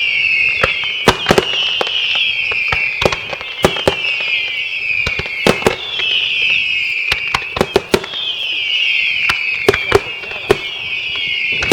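Daytime fireworks display: a rapid, irregular string of sharp bangs over a continuous shrill whistling that wavers and dips in pitch every couple of seconds.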